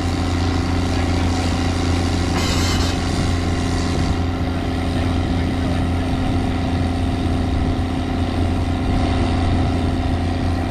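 Heavy diesel engine running steadily under load, with a short hiss about two and a half seconds in.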